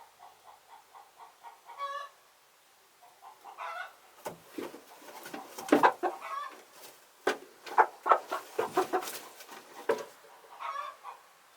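Chickens clucking: a quick run of soft, even clucks, then louder calls. From about four seconds in there is a busy stretch of loud squawks close by, mixed with sharp knocks.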